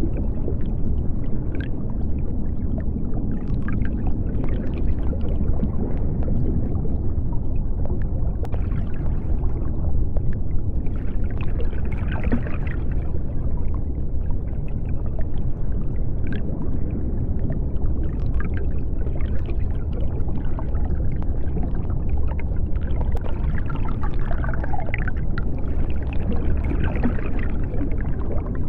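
Underwater sea ambience: a steady deep rumble with scattered bubbling and gurgling over it.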